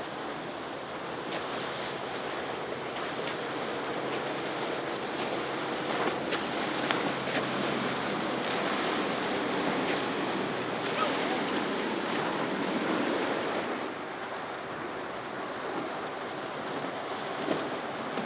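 A powerboat's engines running past through the inlet, growing louder through the middle and fading about three-quarters of the way in, over the wash of waves and wind on the microphone.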